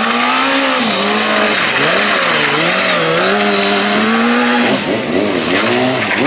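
Motorcycle engine revving hard, its pitch held high and wavering up and down, then dropping and blipped up and down quickly near the end.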